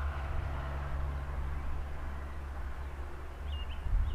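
Steady rush of a flooded river with a low rumble, likely wind on the microphone. A bird gives a couple of short chirps near the end.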